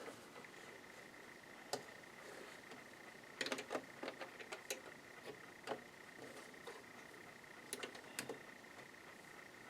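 Scattered light clicks and taps from handling a Janome ME4014 sewing machine, with a cluster about three and a half seconds in and another near eight seconds, over a faint steady high whine.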